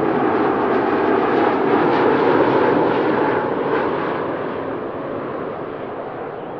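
Jet airliner engines passing close by: a loud, steady rushing roar that fades from about halfway through as the aircraft moves away.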